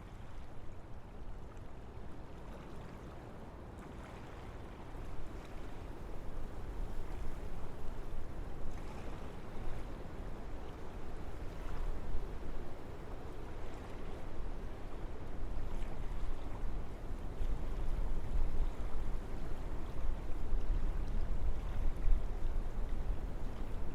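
Wind blowing through a forest: a steady rushing noise with a low rumble underneath, swelling in gusts and growing gradually louder from about five seconds in.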